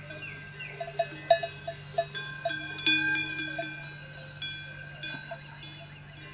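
Metal bells clinking and ringing at irregular intervals, a dozen or so strikes that are busiest in the first half and thin out after, over a steady low hum.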